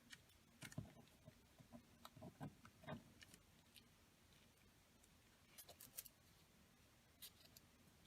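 Faint scattered clicks and taps of paper craft pieces being handled and set down on a work table, in two small clusters.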